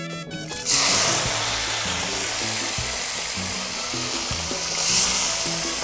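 Small dried fish (ndakala) hitting hot cooking oil in a frying pan: a sudden loud sizzle about half a second in, then steady frying, swelling again near the end.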